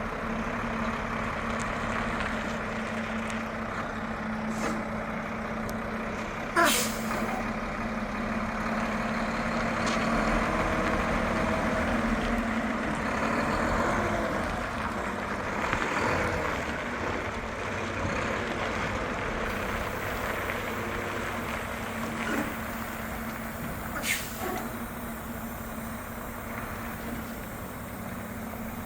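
Truck engine running steadily at low speed during slow maneuvering. Short, sharp air-brake hisses cut in twice: the louder one about seven seconds in, the other near the end.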